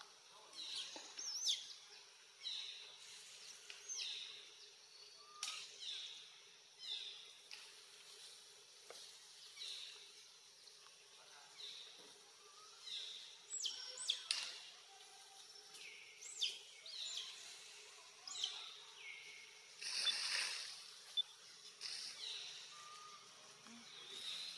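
Birds calling: short high chirps sliding downward in pitch, repeating about once a second. About twenty seconds in there is a louder rustle lasting around a second.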